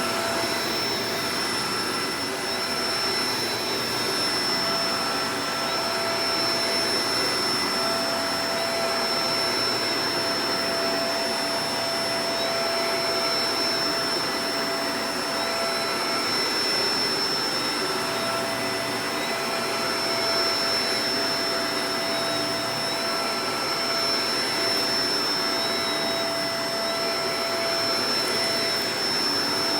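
Shark Professional Powered Lift-Away DLX (NV586) upright vacuum cleaner running steadily, a constant whine over rushing air whose tones shift slightly now and then.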